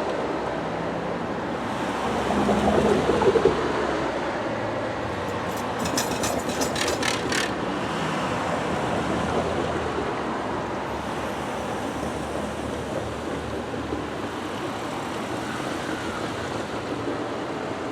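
NJ Transit passenger train running past with a steady rumble. It swells louder about three seconds in, and a quick run of sharp clicks follows a few seconds later.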